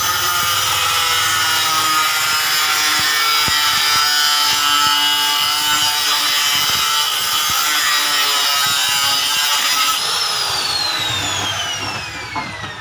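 Homemade coconut grater driven by the electric motor of a converted water pump, running at speed with a high steady whine and a rasping, grating noise. About ten seconds in the motor is switched off, and its whine falls steadily as it spins down.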